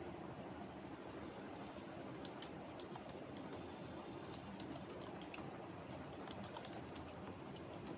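Typing on a computer keyboard: irregular key clicks, sparse at first and then coming in quick runs from about two seconds in, over a steady low background hum.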